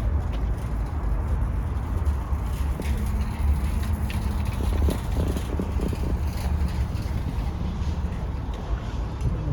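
Car driving slowly, heard from inside the cabin: a steady low rumble of engine and tyres, with a faint steady hum joining about three seconds in.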